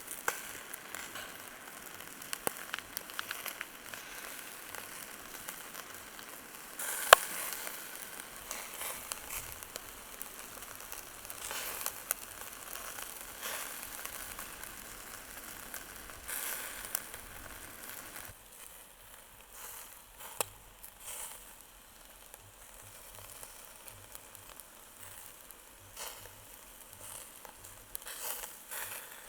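Chicken kebab skewers sizzling over an open fire, with scattered crackles and pops. There is one sharp pop about seven seconds in, and the sizzle thins out about two-thirds of the way through.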